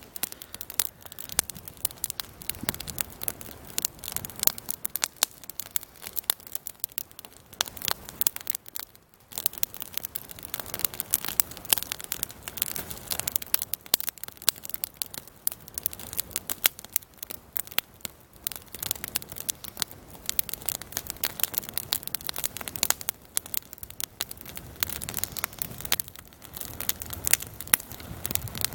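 Wood campfire crackling, a steady stream of irregular sharp snaps and pops over a soft hiss, easing briefly about a third of the way in.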